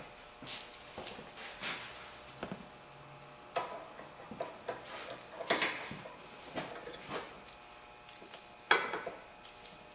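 Irregular metallic clicks and clinks of a wrench and ratchet working on a sway bar link nut, with the louder knocks about a second in, midway and near the end.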